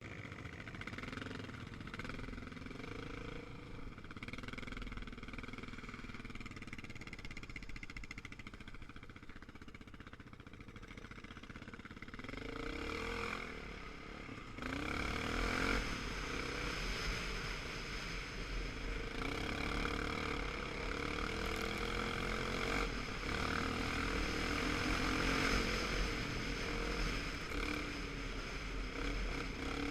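Motorcycle engine running with its pitch rising and falling with the throttle, getting louder and noisier about halfway through.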